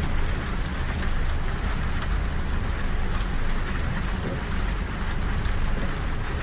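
Steady rain falling on a train carriage window over the low, continuous rumble of the moving train.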